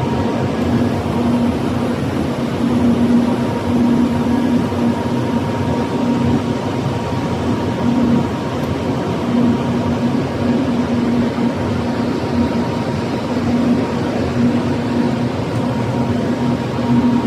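Steady running noise of glass-processing machinery, with a hum that swells and fades every second or so and a thin steady whine above it.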